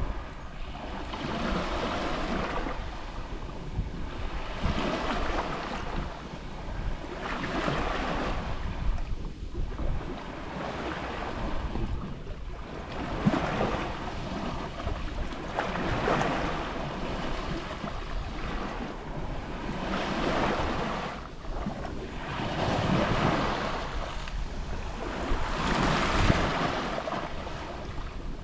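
Small sea waves lapping on the shore, each wash swelling and fading about every three seconds.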